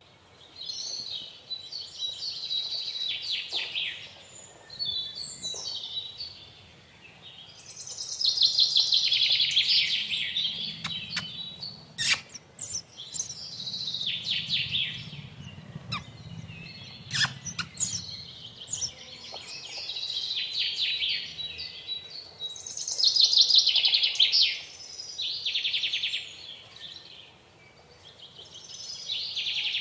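Baby sparrow chirping in repeated bouts of rapid, high chirps, each a second or three long with short pauses between. A few sharp clicks come in the middle.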